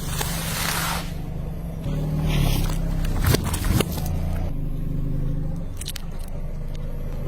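Car engine running low and steady while the car rolls slowly. Several sharp cracks come a little before the middle and again later, as something is crushed under a tyre. There is a short hissing burst near the start and another about two seconds in.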